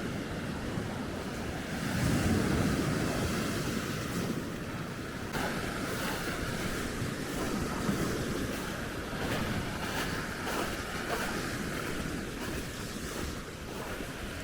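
Baltic Sea surf washing onto the shore, with wind buffeting the microphone; a wave swells louder about two seconds in.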